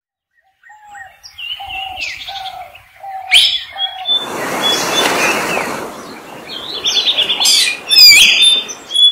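Several birds calling: a run of about five evenly spaced mid-pitched notes, quick high chirps and trills over them, and a whooshing rush of noise for about two seconds near the middle.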